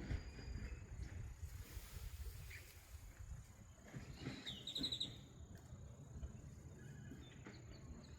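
Lakeside outdoor ambience: a low rumbling noise underneath, a faint steady high whine, and a few bird chirps, with a quick run of rapid high notes about four and a half seconds in.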